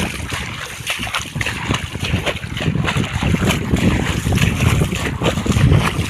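Wind buffeting the microphone with a fluctuating rumble, over water splashing and pattering.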